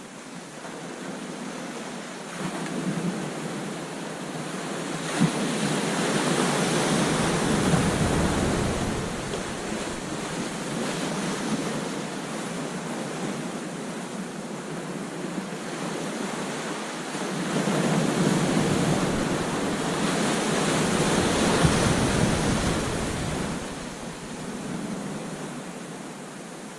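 Ocean surf breaking on a beach, a steady wash of noise that swells as waves crash twice, about a fifth of the way in and again past the middle, with some wind on the microphone.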